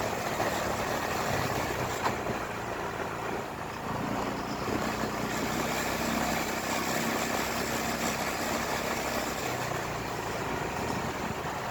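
Motorcycle engine running steadily, with road and wind noise around it and a single click about two seconds in.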